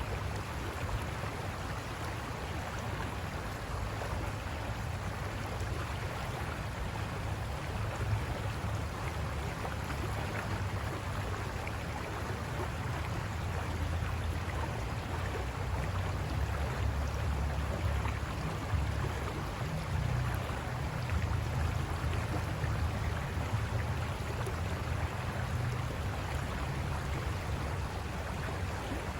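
River water rushing over rocks: a steady rushing noise with a deep rumble underneath that swells and eases.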